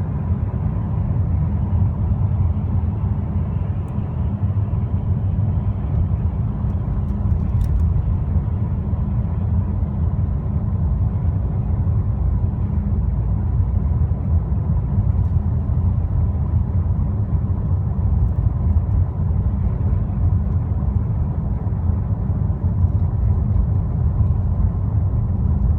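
Petrol engine of a vehicle pulling at low revs, around 1000 rpm, with a steady low rumble that neither rises nor falls, plus a faint steady whine.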